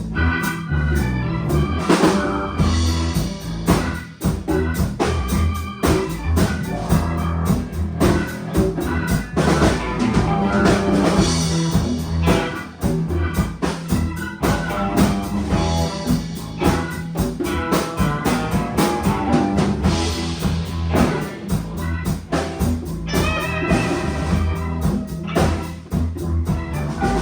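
A rock band playing through a song: a drum kit keeping a steady beat under organ, bass and guitar, with no singing.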